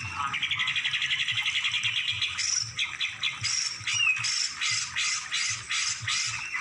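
A songbird singing: a fast, rattling trill for about two seconds, then a run of harsh, evenly spaced notes about three a second, with one short falling whistle among them.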